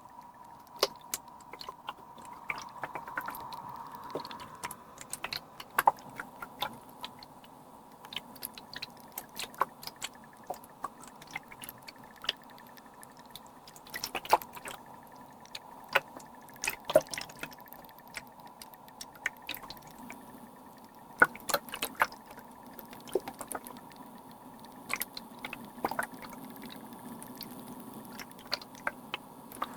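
Humidifier water sounds: irregular drips and small plinking droplets, dozens of sharp little clicks at uneven spacing, over a faint steady hum.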